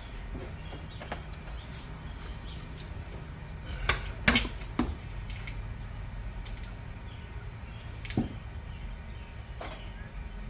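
A few short clinks and knocks over a steady low hum: the loudest cluster comes about four seconds in, and a single knock follows just past eight seconds.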